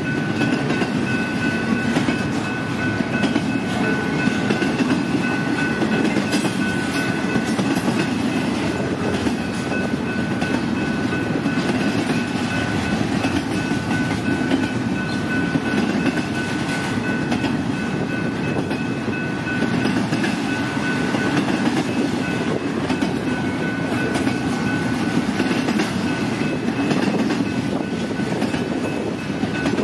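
Double-stack intermodal freight cars rolling past at steady speed: the even rolling noise of steel wheels on rail, with a thin, steady high-pitched ring over it.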